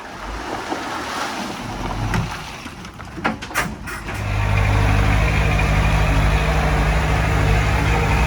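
Heavy diesel engine of earthmoving equipment. A few sharp metallic clanks sound over an uneven rumble, then about halfway through the engine comes up loud and runs steadily under load.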